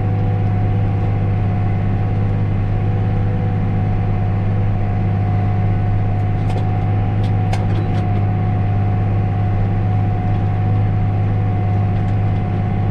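John Deere tractor engine running steadily, heard from inside the cab as a constant low drone with a steady higher whine over it. A few light clicks come about halfway through.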